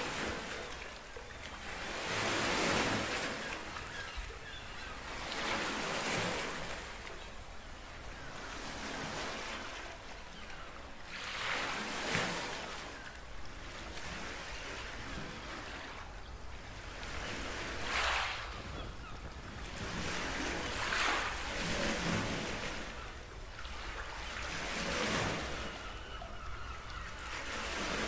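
Small waves washing onto a beach, each swell of hiss rising and falling away every few seconds.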